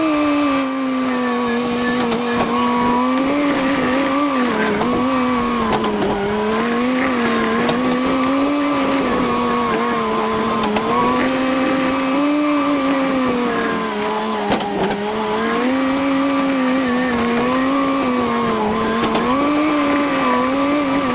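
Engine running steadily, its pitch rising and dipping slightly every second or two as the load changes, with a few light clicks and rattles over it.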